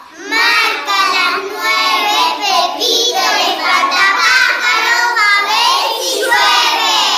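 A child singing a song in Spanish, verse lines following one another without pause.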